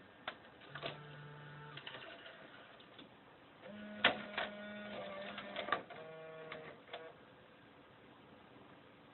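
JVC car stereo deck's internal mechanism running in short bursts: motor whirs with sharp clicks and rattles, stopping and starting three times over about seven seconds. This is the unwanted noise the deck makes.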